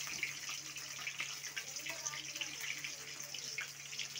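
Food sizzling and crackling in hot oil in a steel kadai, a steady hiss full of tiny pops, over a faint low hum.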